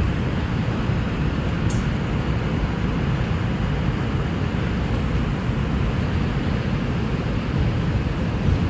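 NYC Subway R142 train running along the track, heard from on board: a steady low rumble of wheels and car noise with no letup.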